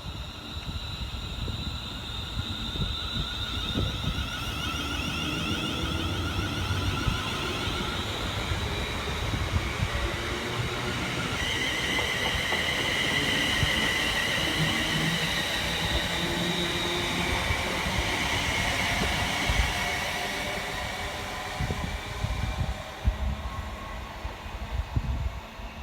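A passenger train passing on the main line, with a rumble under a steady whine. It swells to its loudest about halfway through and then fades away.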